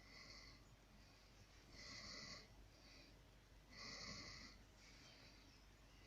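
Faint, raspy breaths from a small animal, about one every two seconds.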